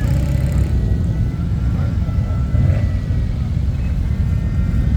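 Motorcycle engines running nearby: a steady, loud low rumble.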